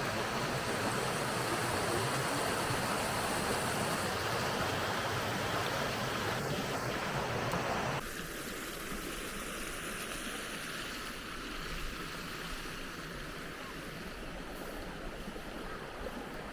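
Steady rush of water from a waterfall and its stream. About eight seconds in, the sound cuts abruptly to a quieter, thinner rush.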